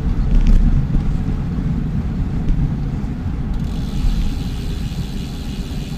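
Wind rumbling on the microphone, with road noise, from a bicycle being pedalled along a road. A faint high whine joins about halfway through.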